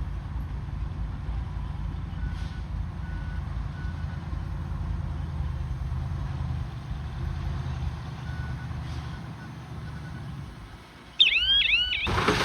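Heavy diesel earth-moving machine, likely a bulldozer, running with a steady low rumble, with faint short reverse-alarm beeps a couple of seconds in and again later. The rumble fades out about ten seconds in, then a sudden loud burst of high squealing chirps gives way to a loud rushing hiss near the end.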